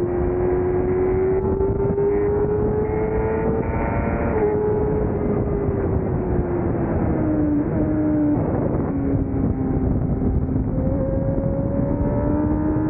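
600cc racing motorcycle engine at speed under heavy wind rush: revs climb for about four seconds, fall away with a couple of downshifts around seven to eight seconds in, then build slowly again.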